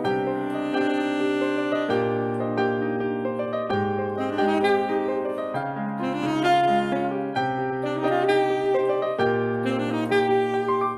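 Live saxophone playing a Brazilian melody with piano accompaniment, the piano's low chords changing every couple of seconds.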